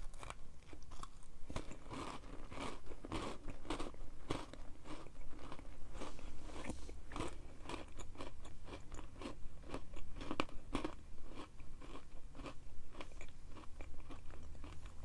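Close-miked crunchy chewing of a granola cup with chopped almonds: many irregular crisp crunches, several a second.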